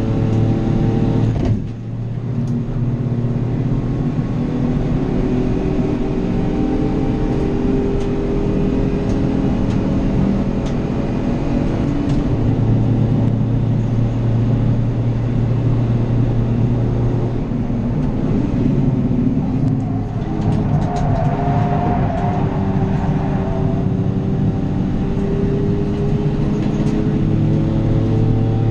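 City-car racing engine heard from inside the car on track, running hard with its note rising and falling as the car changes gear. There is a short dip in the sound about two seconds in.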